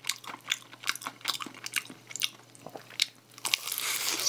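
Close-miked chewing of a sauce-glazed fried chicken piece: a quick run of small crisp clicks, with a louder, noisier bite near the end.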